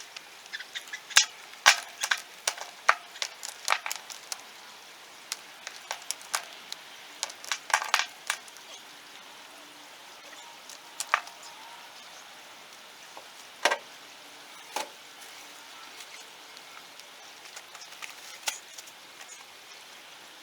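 Irregular sharp clacks and knocks of rocks being lifted, dropped and stacked by hand, densest in the first half, over a steady background hiss.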